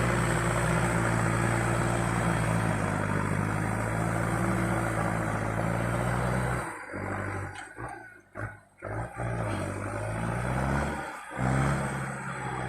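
Kubota farm tractor's diesel engine running steadily under load. About two-thirds of the way through, the sound becomes broken and uneven, and the engine pitch dips and rises again.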